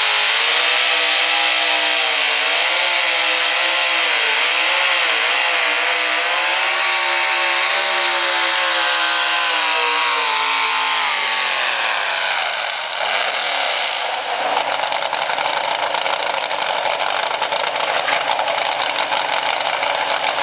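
Two-wheel-drive pulling truck's engine running at high revs, its pitch wavering up and down, then winding down about eleven seconds in. A steady rushing noise follows.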